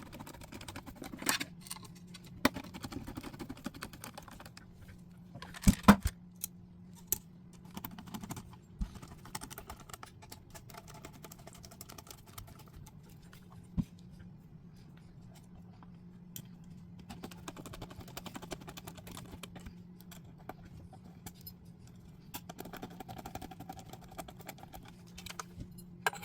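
Scattered small clicks, taps and rattles of metal and plastic lock parts being handled and fitted as an Onity electronic door lock is reassembled, with two sharp, loud clicks about six seconds in. A steady low hum runs underneath.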